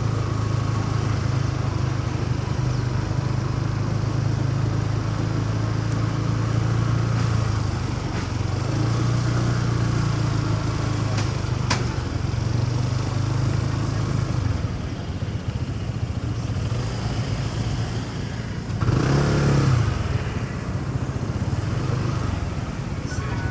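Motorcycle engine running steadily while riding through city traffic, with street noise around it. A single sharp click comes near the middle, and a brief louder engine swell comes a little over three-quarters through.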